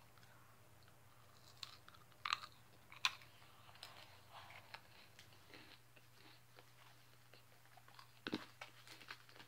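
A person chewing a mouthful of food, faint, with a few sharp crunchy clicks about two and three seconds in and another cluster near the end.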